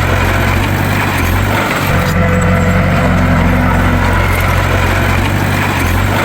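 Bulldozer diesel engine running steadily, with a brief dip in its low rumble about a second and a half in.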